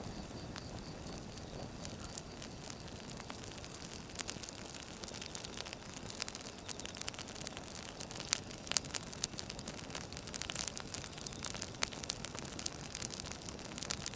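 Firewood burning: a steady hiss overlaid by many sharp crackles and pops, sparse at first and coming thicker from a few seconds in.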